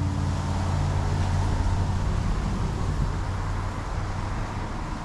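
Steady low mechanical hum of a running motor, with a broad noisy wash over it, slowly fading a little.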